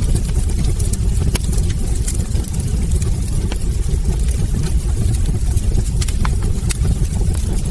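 Wood fire burning in a fireplace: a steady low rumble of flames with frequent small sharp crackles and pops from the logs.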